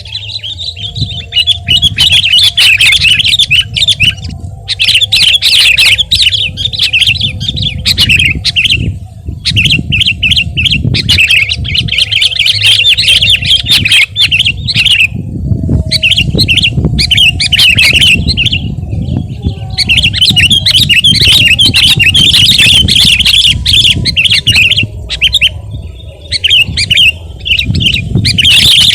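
Sooty-headed bulbul (kutilang) singing continuously in loud, rapid chattering phrases of a few seconds each, broken by short pauses, over a steady low hum.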